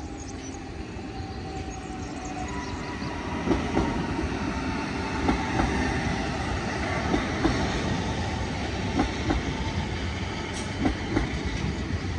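Passenger train passing a level crossing. Its wheels clack over the rail joints in close pairs about every two seconds, over a steady rolling rumble that grows louder as the train draws level.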